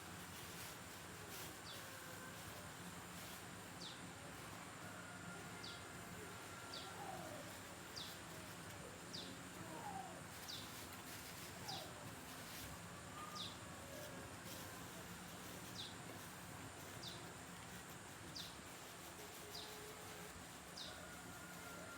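A bird repeating a short, high, falling chirp about once a second, faint against a steady low background hum, with a few fainter lower calls in between.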